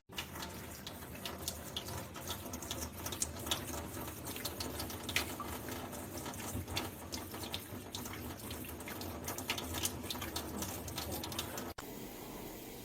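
Running water, with many small clicks and splashes through it. Near the end it cuts abruptly to a quieter, smoother hiss.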